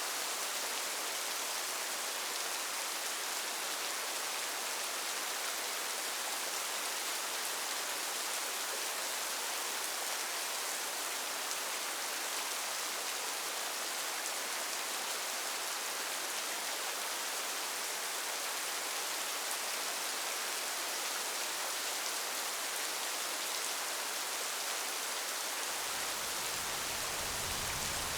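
Steady hiss of rain falling. Near the end a low thunder rumble begins to come in.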